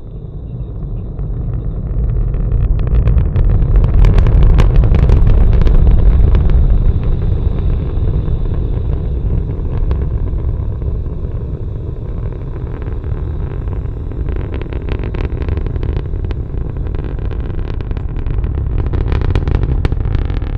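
Falcon 9 rocket's nine Merlin engines at liftoff: a deep rocket roar that swells over the first few seconds, is loudest about four to six seconds in, then holds steady with a crackling edge.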